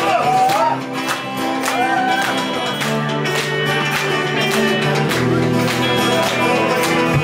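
Live rock band playing an instrumental intro: electric guitars, bass and drums keeping a steady beat, with a gliding, bending lead melody in the first couple of seconds.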